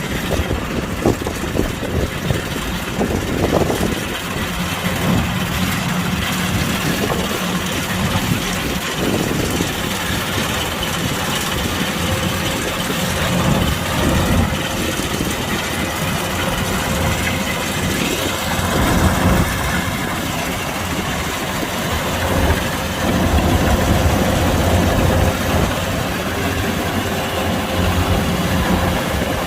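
Kubota DC-105X combine harvester's diesel engine running steadily, with the continuous machine noise of the harvester; a thin steady whine joins in about halfway through.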